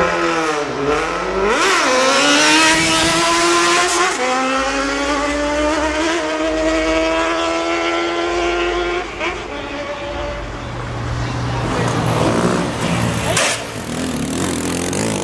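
Sport motorcycle accelerating hard. The engine note climbs, drops once at a gear change about four seconds in, then climbs again for several seconds before fading away. Afterwards there is a lower, steadier road and traffic rumble.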